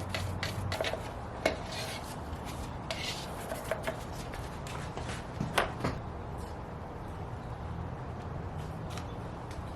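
Scattered clicks, taps and light knocks of small objects being handled on a work surface, the kind made while mixing and applying a small batch of epoxy. They thin out after about six seconds, leaving a steady low hum.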